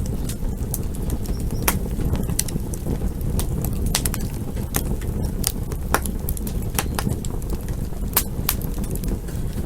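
Campfire burning: a steady low rumble of flames with frequent sharp, irregular crackles and pops from the burning wood.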